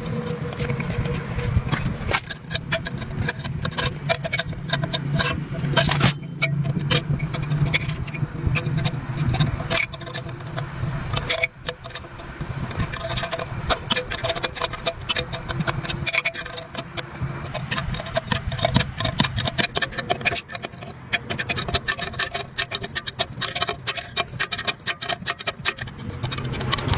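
Irregular metallic clanks, clicks and rattles of hand work on metal parts over a steady low mechanical hum.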